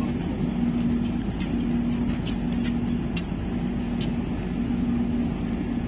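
Passenger train rolling slowly after setting off, heard from on board: a steady low rumble of the coach running on the rails, with scattered sharp clicks.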